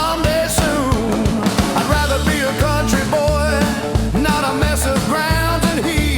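Blues-rock band playing an instrumental passage between sung lines, with a steady bass line and drums under a wavering lead melody.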